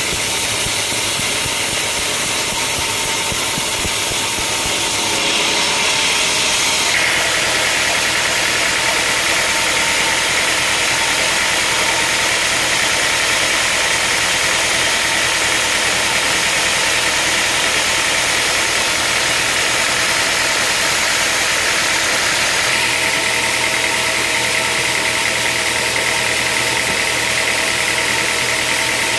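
Sawmill machinery running steadily with a hissing, engine-like drone. The sound changes abruptly twice, once several seconds in and again near the end.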